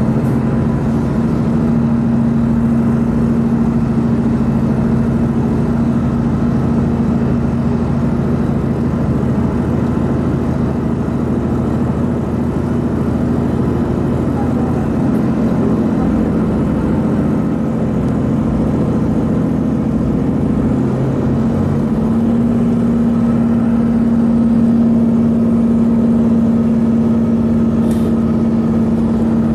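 A vehicle's engine running steadily under way, with a steady droning hum that weakens for a few seconds and comes back strongly about 22 seconds in.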